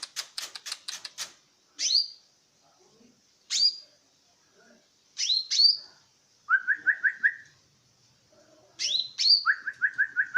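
Leafbird ('burung hijau') singing: a fast run of sharp chips, then loud, sharp down-slurred whistles at intervals, and twice a quick run of five or more lower whistled notes.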